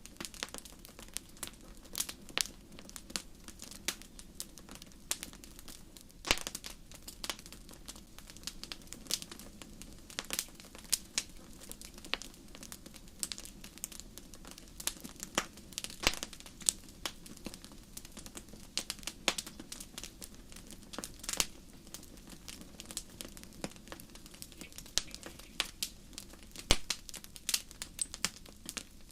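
Wood campfire crackling: irregular sharp pops and snaps, several a second with a few louder ones, over a steady low rush of the flames.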